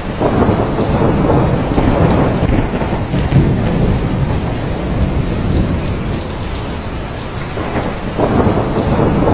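Heavy rain falling steadily, with rolling thunder: one long rumble at the start that fades by about three seconds in, and another building near the end.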